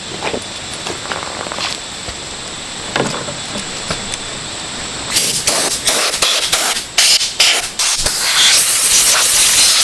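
Light clinks and knocks of small parts and tools. About five seconds in, a loud hissing spray jet starts, first in short blasts, then steadily, as in cleaning mower parts.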